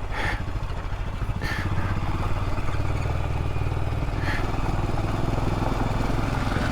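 Royal Enfield Himalayan's 411 cc single-cylinder engine running steadily at low revs, with its fast, even firing pulse. A few short clacks break in about a second apart near the start and again about four seconds in.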